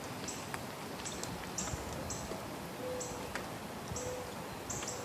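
Outdoor ambience: a steady hiss of wind and weather. Short high chirps repeat irregularly every half second to a second, like birds or insects, and there are a couple of brief low notes about three and four seconds in.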